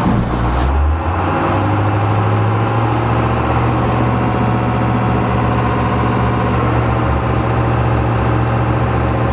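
International school bus's 7.3-litre V8 turbo diesel running in forward gear. Its engine speed comes up about a second in and then holds steady while the bus stays stuck in the snow drifts.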